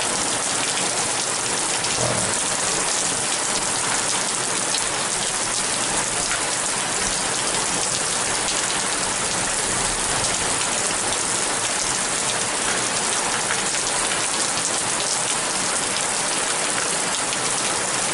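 Heavy rain pouring steadily, a dense hiss of drops hitting hard surfaces.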